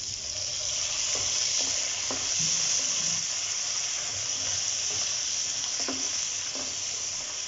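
Onions and green capsicum sizzling in oil in a hot wok with freshly added soy sauce, stirred with a silicone spatula that scrapes and taps against the pan several times.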